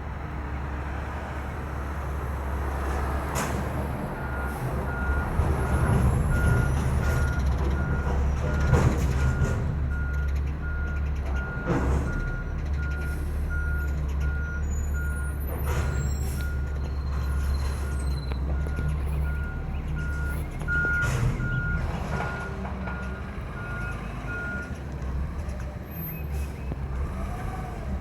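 Front-end-loader garbage truck with its diesel engine running and rising in level now and then. Its reversing alarm beeps steadily for about twenty seconds and stops a few seconds before the end. Several sharp metal clanks are heard along the way.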